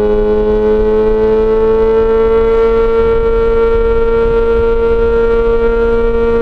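Yamaha XJ6 S inline-four engine through an SC-Project exhaust, held at high revs in gear with its pitch climbing slowly and steadily, over low rumbling wind and road noise.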